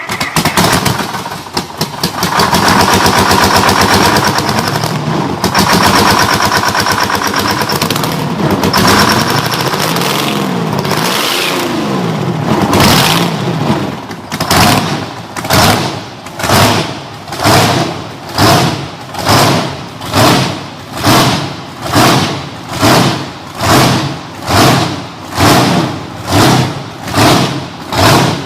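A large engine starting up and revving, its pitch rising and falling for several seconds. About halfway through the sound turns into a slow, heavy, even beat about once a second.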